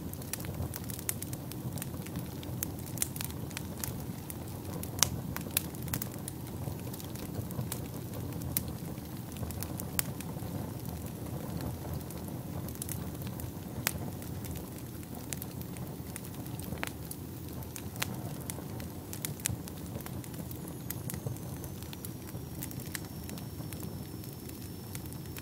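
Wood fire burning in a fireplace: a steady low rumble of flames with frequent sharp crackles and pops, thicker in the first half.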